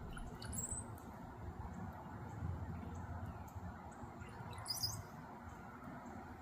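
Small songbird giving short, high chirps: one about half a second in and a brighter burst of notes near five seconds, over a steady low rumble.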